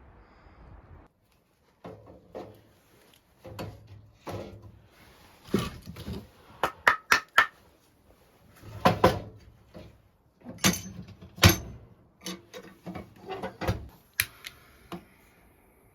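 Irregular knocks and clatters of objects being handled and set down in a small room: a dozen or so sharp knocks, some in quick runs of two or three, with the loudest in the middle.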